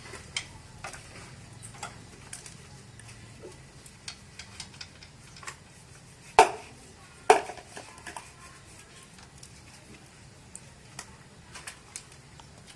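Light clinks and taps of hard objects being handled, with two loud, sharp knocks about a second apart midway.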